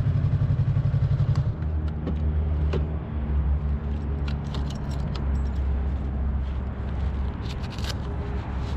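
Yamaha R3 parallel-twin engine running. Its pulsing note drops to a lower, steadier one about a second and a half in, and light clicks and rattles come through here and there.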